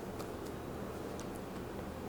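Steady low room hum with a few faint, light clicks.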